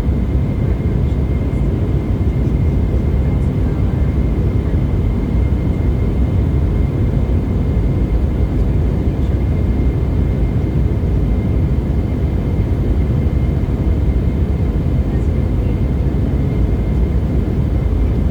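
Aircraft in flight: a loud, steady low drone of engine and airflow noise, with a thin steady whine above it.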